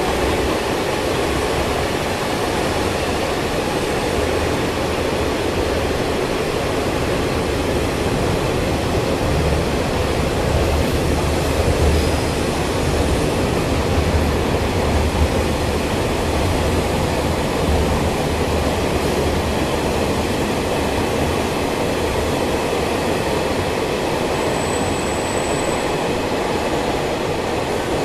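Freight train wagons (boxcars, tank cars and open wagons) rolling past, a steady rumble of steel wheels on rail that is heaviest in the middle. A brief thin high tone comes in near the end.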